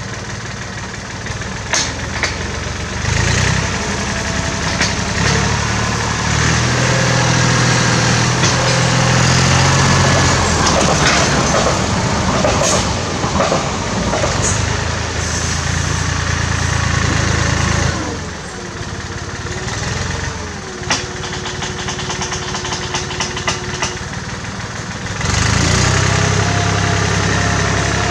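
1967 David Brown tractor engine running. It works harder from about three seconds in, eases off for a stretch past the middle, then picks up again near the end, with scattered clicks and knocks over it.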